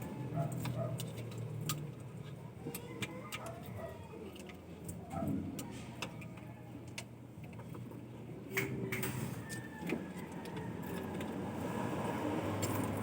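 A vehicle engine running with a low steady hum, with scattered, irregular metallic clicks and clinks over it.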